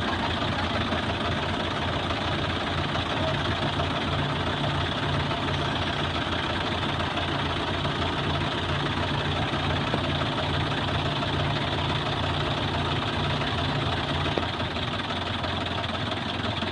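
Mahindra Yuva 585 tractor's diesel engine idling steadily with an even low throb, a little quieter near the end.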